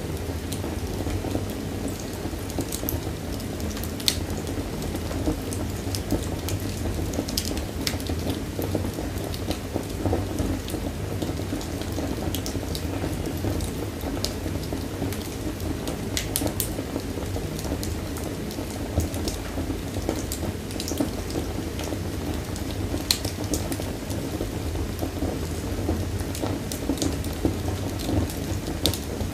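Wood fire burning in a fireplace: a steady low roar of flames with frequent sharp crackles and pops scattered throughout.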